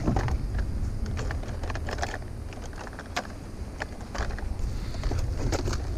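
Scattered light clicks and clinks of small scrap items being handled and sorted, over a steady low rumble.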